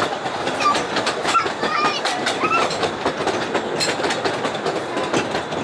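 Ravenglass & Eskdale Railway's 15-inch narrow-gauge train running on its track, the wheels clicking quickly and steadily over the rail joints.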